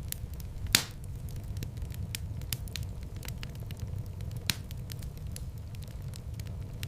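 Wood fire in a fireplace crackling over a steady low rumble, with frequent small snaps and two louder pops, one just under a second in and one about halfway through.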